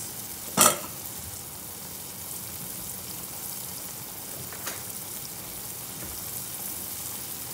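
Egg and eggplant pancake mixture sizzling steadily in hot oil in a frying pan. A sharp knock, the loudest sound, comes just over half a second in, and a fainter one about two-thirds of the way through.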